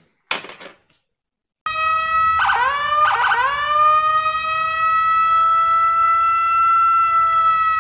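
Electronic police-siren sound from a toy police car. It starts about a second and a half in, gives two quick rising swoops, then holds one steady tone.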